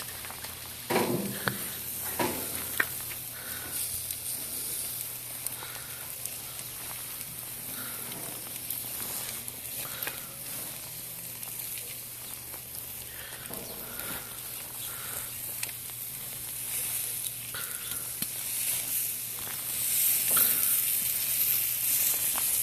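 Food sizzling on a hot cooking surface, a steady hiss, with a few sharp utensil knocks in the first few seconds; the sizzle gets louder about 20 seconds in.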